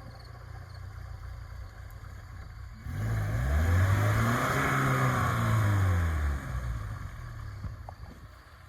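Car engine revving: its pitch climbs and then falls back over about three and a half seconds, over a steady low rumble.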